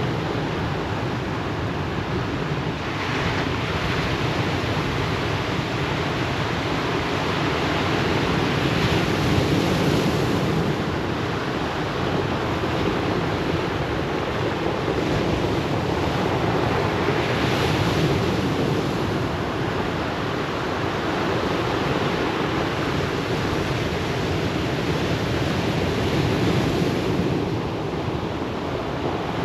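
Ocean waves breaking and washing on a pebble beach, a steady surf with a louder surge about every eight seconds.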